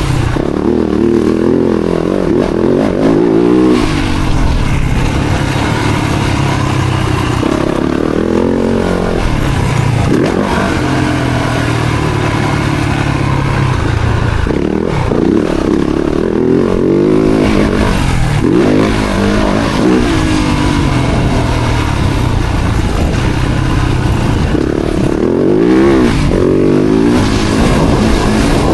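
Four-stroke motocross bike engines revving up and down over and over, accelerating hard and backing off, with rising and falling engine pitch throughout.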